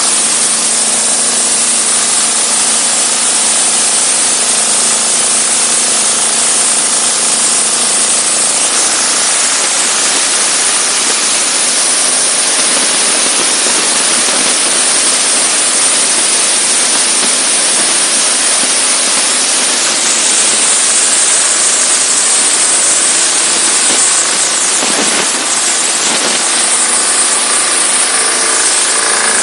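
Diesel-engine-driven high-pressure washer running steadily, its spray jet making a loud, even hiss over the engine's hum.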